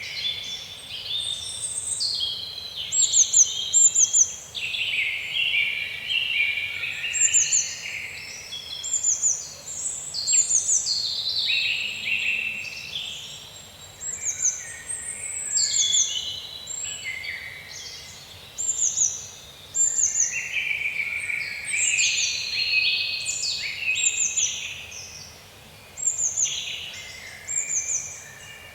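Several songbirds singing at once in woodland, a continuous chorus of quick chirps and short falling whistled phrases that overlap and repeat every second or so, over a faint steady hiss.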